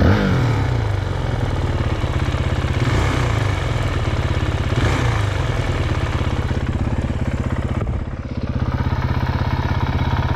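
Honda CRF450X dirt bike's single-cylinder four-stroke engine running under the rider. The revs drop away three times, about a second in, around three seconds and around five seconds, and the sound sags briefly near the eighth second.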